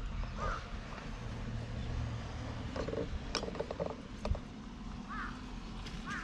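A few short bird calls over a low outdoor rumble, with a cluster of small clicks and scrapes about three seconds in.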